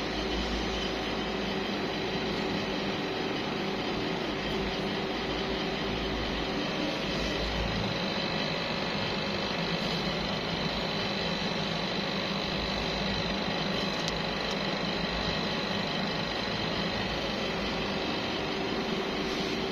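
A motor running steadily, a constant hum with a thin high whine over it.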